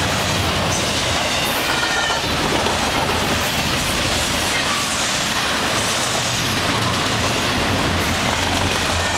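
Intermodal freight train's double-stack container well cars rolling past at speed: a steady, loud noise of steel wheels running on the rails.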